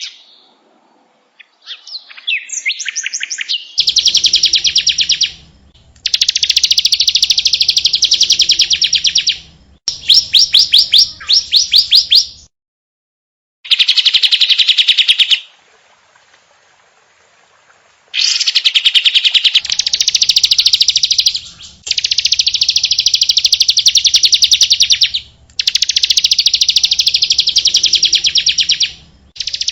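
Recorded songbird song used for tutoring cage birds: a string of rapid, high trilled phrases, each a second or three long, starting and stopping abruptly with short gaps between them.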